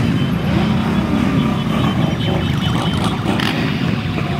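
Many motorcycle engines running together as a parade rides past, a loud steady drone with a few engines revving up and down over it.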